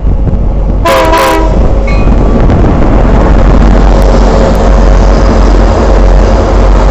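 BNSF diesel locomotives hauling a loaded coal train pass close by, loud with engine and wheel rumble, and give a short horn blast about a second in. Coal cars follow the locomotives past on the rails.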